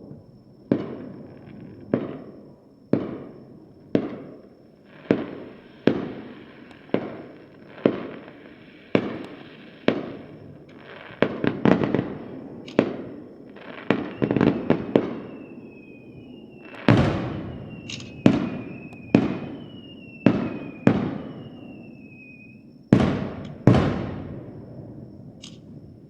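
Aerial fireworks bursting overhead: booming bangs with echoing tails, about one a second at first, then a run of quick crackling bursts, then louder spaced bangs. A whistling tone falling slowly in pitch runs through the later bursts.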